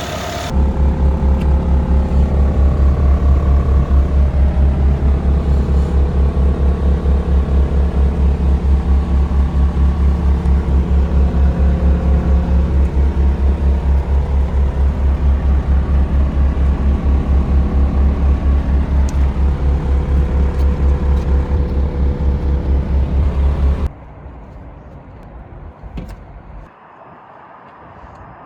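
Diesel engine of a Bobcat T64 compact track loader running with a steady, pulsing low throb. It gets louder about half a second in, then stops abruptly near the end, leaving only faint background sound.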